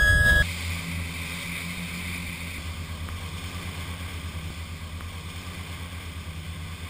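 An outboard motor running steadily, a low even hum. A loud high steady tone cuts off about half a second in.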